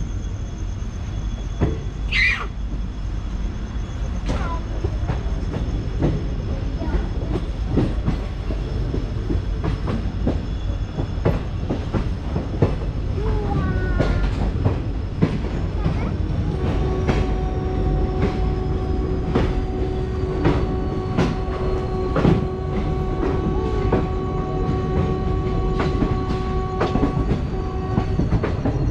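Passenger train coaches rolling along with clickety-clack from the rail joints. There is a brief high wheel squeal about two seconds in, and a steady pitched tone sounds for about the second half.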